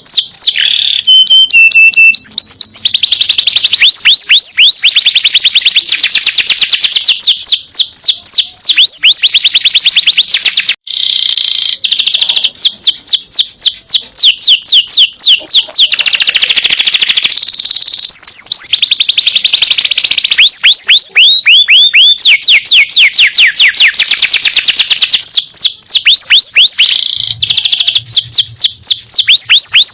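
Domestic canary singing long, loud, rolling trills: fast runs of repeated sweeping notes, chained almost without a break except for a short pause about eleven seconds in.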